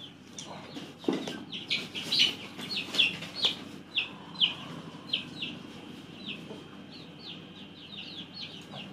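Bird chirping: short, high, falling chirps repeated over and over, roughly two a second, with a single knock about a second in.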